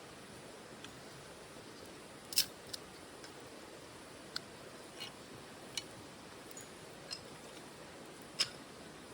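Wood fire burning in a OneTigris titanium wood stove: irregular sharp crackles and pops over a soft steady hiss, the loudest pop about two and a half seconds in.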